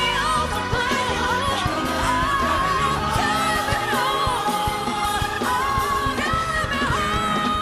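Live gospel-style pop performance: a woman's lead vocal sings wavering runs with heavy vibrato over a full band, settling into a long held note near the end.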